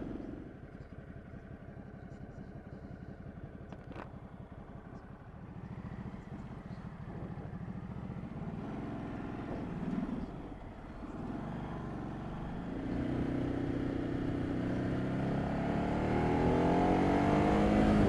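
Ducati Multistrada 1200's L-twin engine running under way, fairly subdued for the first dozen seconds. Then it pulls harder, its note rising and getting louder over the last five seconds as the bike accelerates.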